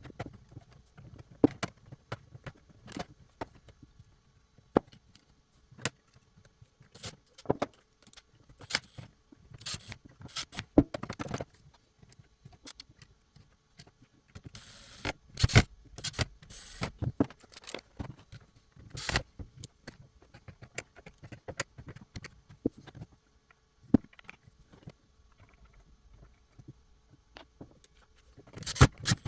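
Irregular clicks, taps and brief scrapes of small hard parts being handled, typical of work on a robot vacuum's plastic housing, with a quick run of clicks and a short scrape about halfway through.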